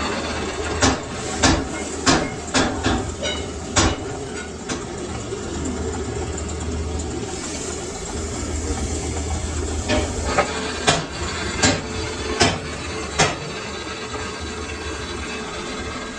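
Machinery running with a steady hum, and sharp metal knocks like hammer blows: a quick run of about seven in the first four seconds and about five more starting about ten seconds in.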